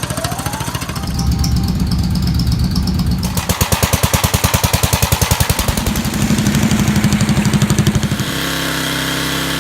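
Cordless impact wrench on the motorcycle's exhaust pipe bolts. It spins up with a rising whine, then hammers in fast, even pulses as it works the bolts loose, with steadier running stretches between.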